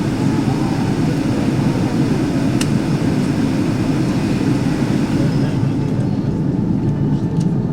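Airliner cabin noise while the aircraft taxis after landing: a steady low rumble of engines and airflow, with a brief click about two and a half seconds in. The higher hiss eases off near the end.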